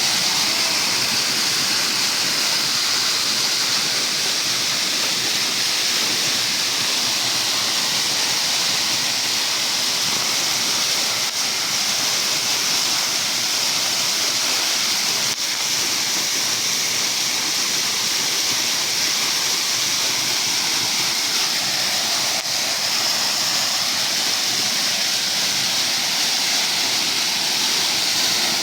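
Waterfall pouring into its pool, a steady hiss of falling water.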